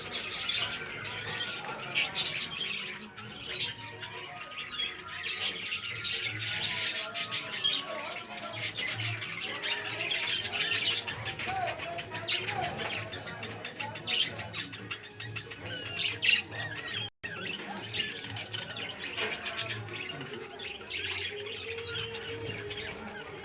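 Lovebirds chirping and squawking without a break, many short calls from several birds overlapping. The sound cuts out for an instant about two-thirds of the way through.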